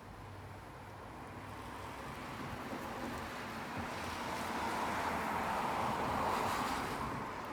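Rain falling, with a rushing noise that swells over about six seconds and eases off near the end.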